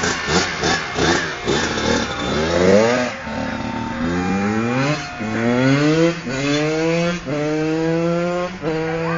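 Kawasaki KX100 two-stroke dirt bike engine revving in short, choppy blips, then accelerating through the gears. The pitch climbs and drops sharply at each shift, about five times, and the later gears hold steadier.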